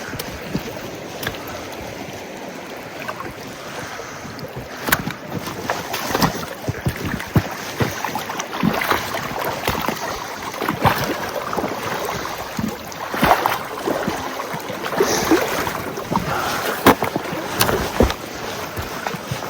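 Boots wading through a shallow, flowing river: irregular water splashes with each step over the steady rush of the current.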